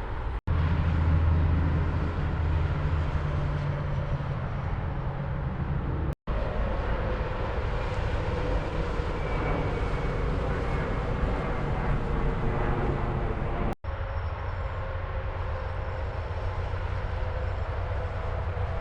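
Steady highway traffic noise from trucks and cars, with a strong low engine drone in the first few seconds. The sound cuts out completely for a moment three times: about half a second in, about six seconds in and near fourteen seconds.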